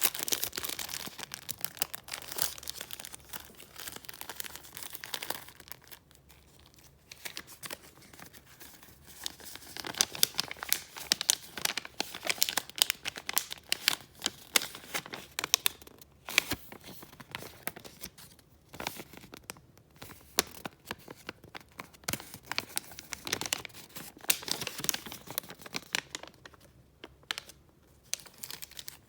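Sheets of paper being handled and flipped through, crinkling and rustling in irregular spells with a few short pauses.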